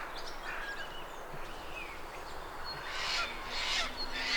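Outdoor bush ambience: a steady background with scattered faint bird chirps, and three short, louder calls about three seconds in.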